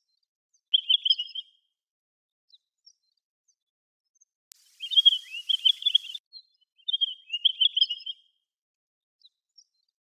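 Pine grosbeaks calling: three short warbled, whistled phrases of about a second each, near the start, about five seconds in and about seven seconds in, with a few faint single notes between.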